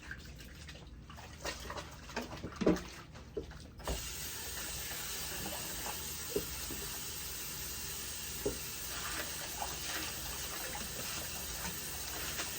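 A few light handling knocks, then about four seconds in a water tap is turned on and runs steadily as a wig is rinsed under it.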